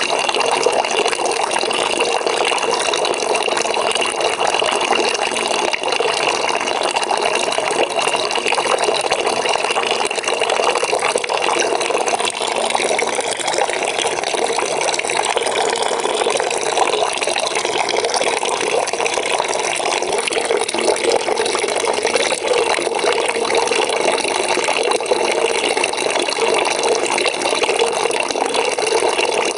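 Water pouring steadily into a bucket as it fills, a continuous splashing rush. A thin higher tone within the rush fades out about a third of the way through.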